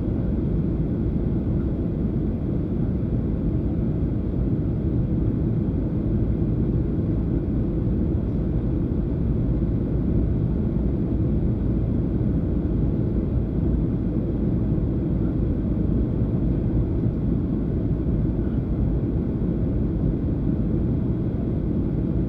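Steady low rumble of cabin noise inside a Boeing 737-800 in flight, from its engines and airflow over the fuselage.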